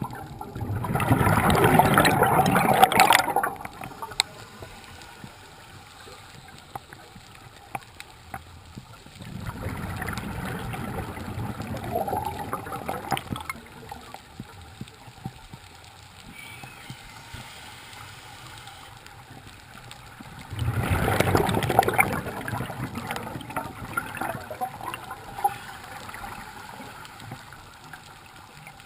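Scuba diver's exhaled bubbles from the regulator, heard underwater: three gurgling bursts of two to three seconds each, about nine seconds apart, with the breathing cycle quiet between them.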